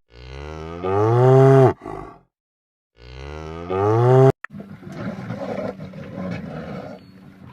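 A cow mooing twice, two long calls that rise in pitch and drop off sharply at the end, followed by a quieter stretch of rough, scratchy noise.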